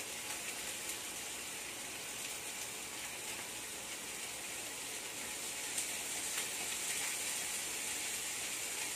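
Corned beef and onion frying in a pan with a steady sizzle, with a couple of faint ticks a little past halfway.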